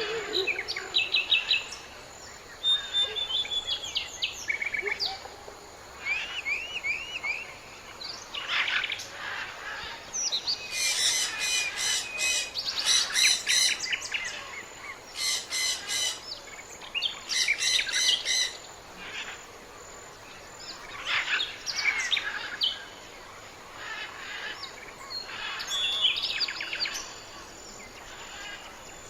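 Several songbirds singing and chirping at once, in varied overlapping phrases that include short whistled sweeps and fast trills of repeated notes.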